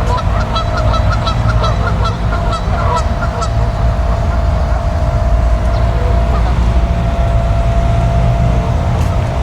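Geese honking, a quick run of short calls, about three or four a second, that fades out after the first few seconds, over a steady low rumble.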